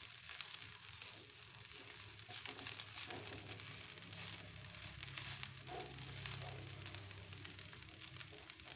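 Fried rice sizzling and crackling faintly in a pan over a gas flame, with a wooden spatula stirring it.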